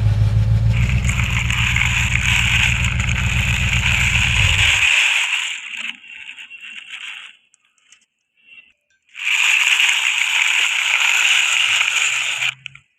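An engine running with a steady low throb that stops about five seconds in, with a loud hiss over it. After a short gap, a hissing, splashing noise comes back for about three seconds.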